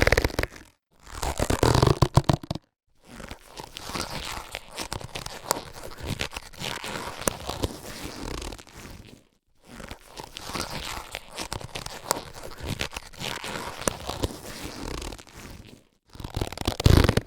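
Latex surgical gloves being handled: loud stretching and rubbing of the latex near the start and again near the end, and between them two long, quieter stretches of rubbing and crinkling full of small ticks and squeaks, broken by a brief pause about nine seconds in.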